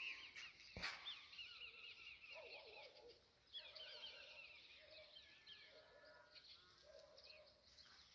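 Faint birdsong: several small birds chirping and trilling over one another in quick repeated phrases. There is a single sharp click just under a second in.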